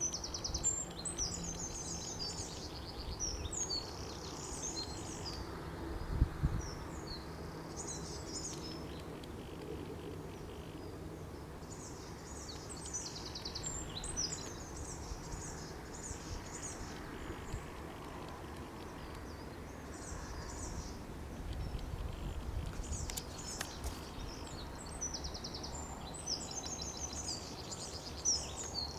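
Small songbirds singing outdoors in repeated phrases of rapid, high chirps, with pauses between phrases. Under them is a steady low rumble of outdoor background noise, and a brief low thump comes about six seconds in.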